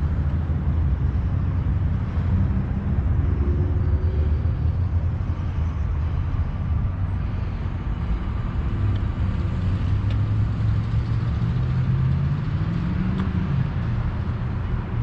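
A motor vehicle's engine running with a steady low rumble, rising in pitch briefly twice.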